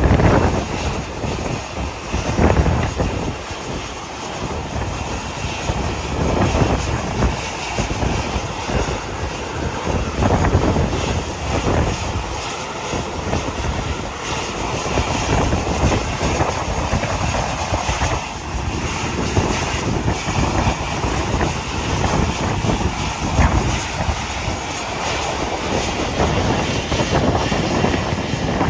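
Airliner engine noise at an airport, overlaid with heavy wind buffeting on the microphone that comes in gusts.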